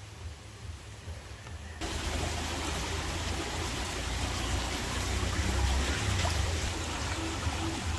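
River water flowing, a steady rushing noise with a low rumble underneath, which comes in suddenly about two seconds in after a quieter stretch.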